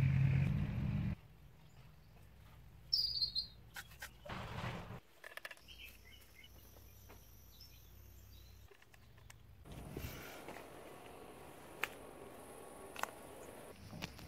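A string of short outdoor sound clips: a low hum in the first second, a bird chirping briefly about three seconds in, and a few sharp clicks in the second half.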